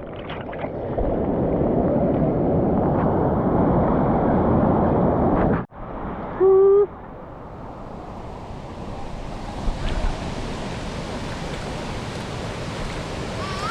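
Steady rush of waterfall water. A little over halfway it cuts off abruptly, a short, loud, pitched tone sounds for about half a second, and then the rushing resumes more softly, with more hiss.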